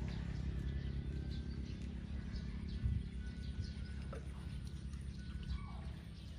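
Small birds chirping in short, scattered calls over a steady low rumble, with one dull thump about three seconds in.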